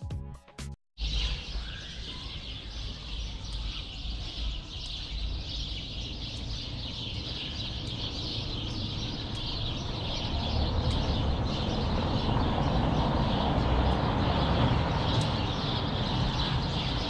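Music that cuts off about a second in. Then a dense chorus of small birds chirping continuously over a low steady rumble, growing louder in the second half.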